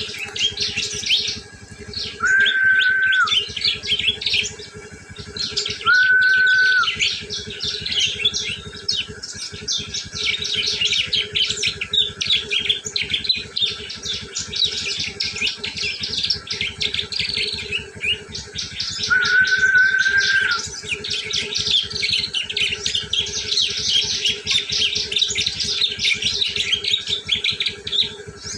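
Prenjak (prinia) giving its fast, unbroken chattering 'ngriwik' call, a lure call for prenjak. Three times a steady whistle-like tone about a second long sounds under the chatter: a couple of seconds in, about six seconds in, and around twenty seconds in.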